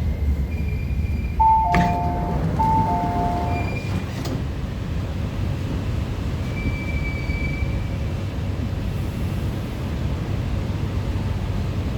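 MTR Tuen Ma line train standing at a station, with a steady low rumble from its equipment. About a second and a half in, an electronic two-note falling chime sounds twice, with a sharp click near its start and another about four seconds in.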